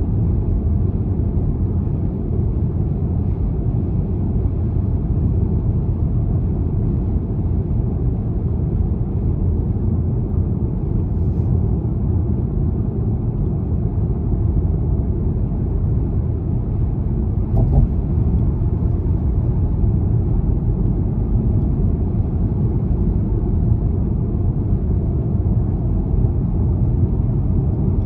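BMW 320d xDrive's four-cylinder diesel and its tyres on the road, cruising at a steady pace: an even, low rumble with no changes in speed. There is a faint click at about eighteen seconds.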